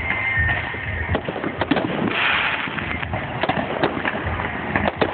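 Fireworks display: a rapid, irregular run of bangs and crackles over deep booms, with a thin whistle in the first second and a dense burst of crackling about two seconds in.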